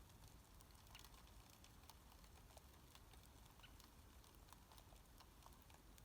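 Near silence: faint room tone with light, scattered ticks at irregular intervals.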